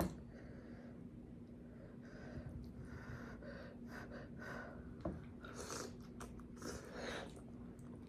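A person chewing and smacking on boiled potatoes and corn, faint wet mouth sounds, with a short click about five seconds in.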